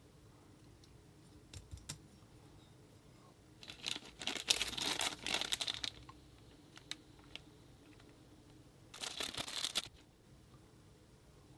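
Packaging crinkling and rustling as it is handled, in two bursts, the first about four seconds in and lasting about two seconds, the second shorter near the end, with a few light clicks between.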